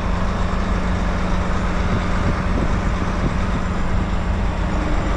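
Truck engine running steadily with road noise, heard from inside the cab while driving slowly; a constant low drone with a steady hum.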